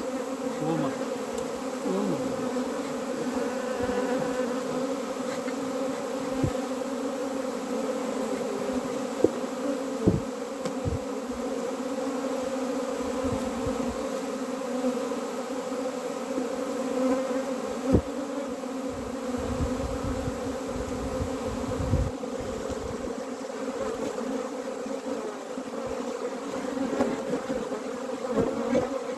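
A honeybee colony buzzing, a steady many-bee hum from the open hive. A few dull low knocks come and go in the middle of it.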